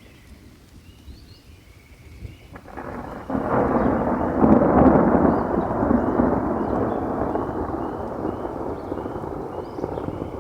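A roll of thunder during a rainstorm. It swells in about three seconds in, peaks a couple of seconds later and slowly rumbles away.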